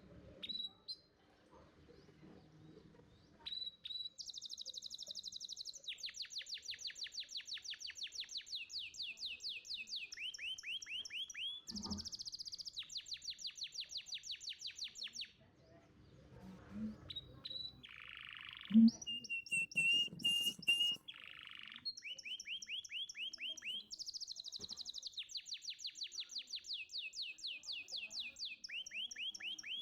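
Domestic canary singing: long rolling trills of fast repeated high notes, phrase after phrase with short breaks, and a steady whistled note held for a couple of seconds a little past the middle. A single sharp knock just past halfway is the loudest sound.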